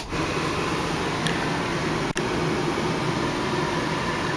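Steady rush of a 1996 Ford Bronco's air-conditioning blower inside the cabin, with the engine idling underneath; a brief click at the start and a momentary dip about two seconds in.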